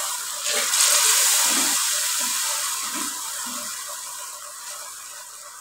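Chicken piece sizzling in hot oil and cooked-down masala gravy in a steel karahi, being fried after the gravy has dried until the oil separated. The hiss flares up about half a second in and then slowly dies away.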